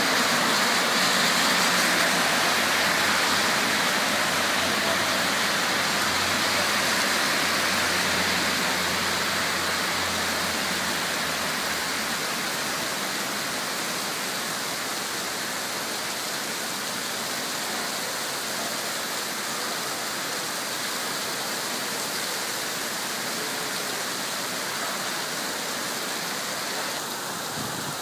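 Heavy rain pouring down on a city street and pavement, a steady hiss of falling and splashing water that eases slightly after about ten seconds.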